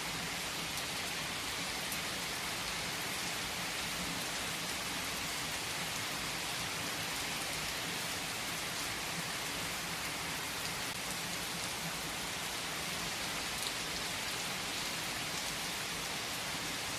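Steady rain falling: an even hiss with occasional faint drop ticks, holding at the same level throughout.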